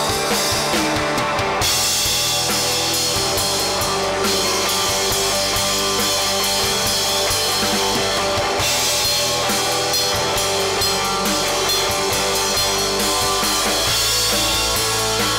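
Live country-rock band playing an instrumental passage on guitars, bass and drum kit, with cymbals ringing over the top.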